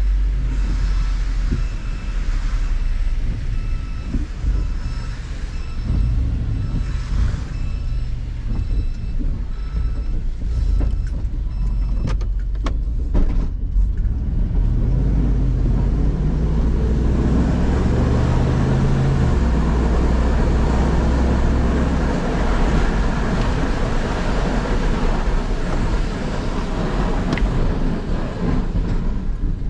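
Diesel plow truck's engine running under load while plowing snow, its pitch rising and falling as it pushes and reverses. A faint, evenly repeated high beep sounds through the first half, and a louder rushing noise builds over the second half.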